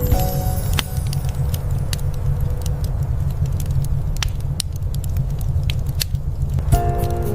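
Wood fire in a fireplace crackling, with scattered sharp pops over a steady low rumble. Soft instrumental music notes die away at the start and come back near the end.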